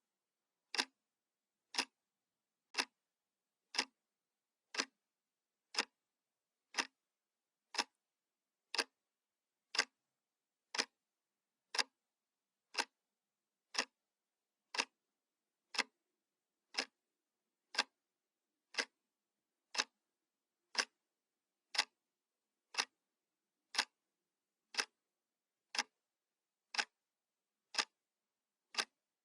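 Analog wall clock ticking, one sharp tick each second with silence between.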